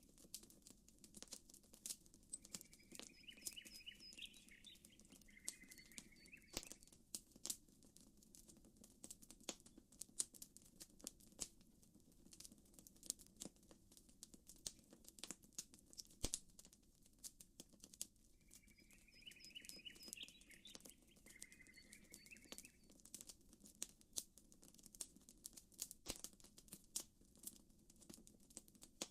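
Campfire crackling with frequent sharp pops over a low, steady rush. A bird calls twice, each time for about four seconds: once a couple of seconds in and again about two-thirds of the way through.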